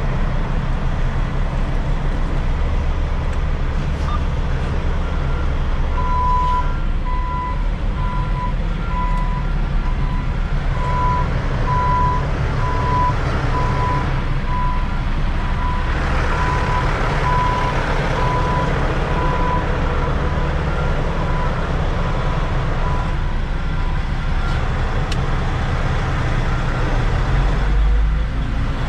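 Semi-truck diesel engine running at low speed while backing up, with a reversing alarm beeping steadily, about one and a half beeps a second, for some fifteen seconds in the middle.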